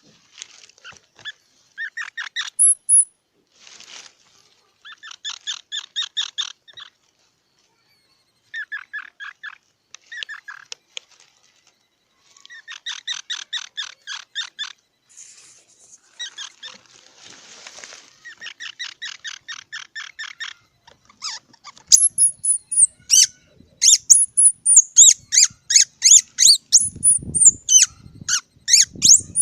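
Squirrel calling in repeated runs of rapid, short chirps, each run a second or two long with gaps between. From about two-thirds of the way through comes a quicker, louder series of higher, squeaky calls that slide down in pitch, with a few low thumps near the end.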